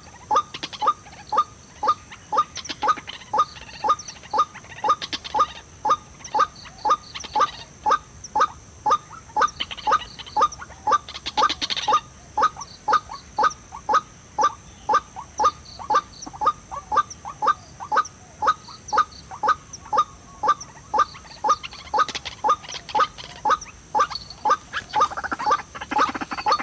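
White-breasted waterhen call: a short, harsh note repeated evenly about twice a second without a break.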